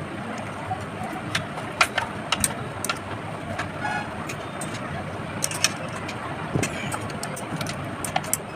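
Steady background rumble with scattered sharp clicks and taps, and one brief high pitched tone about four seconds in.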